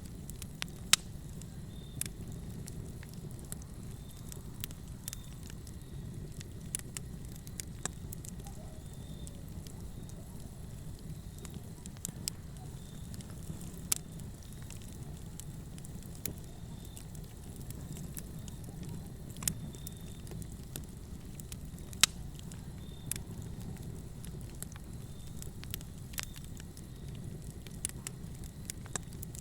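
Fire crackling in a fireplace: a steady low rumble of burning with irregular sharp pops and snaps scattered throughout, a handful of them much louder than the rest.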